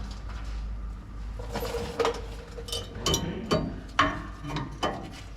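Metal tools and parts clinking and knocking about half a dozen times, starting about a second and a half in, with a brief ringing tone near the first knock.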